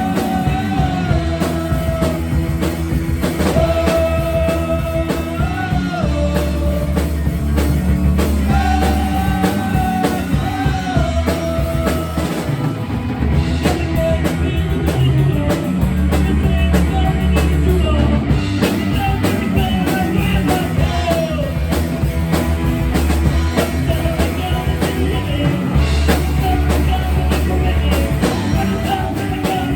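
A rock band playing live: drum kit and bass guitar under a held, bending melody line.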